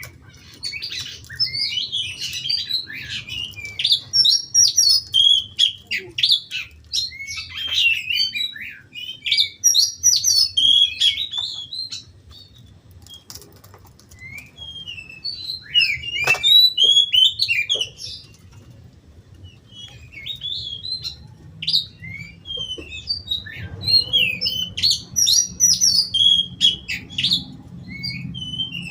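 Songbird singing: rapid, varied chirps and trills in long phrases, breaking off twice for a few seconds.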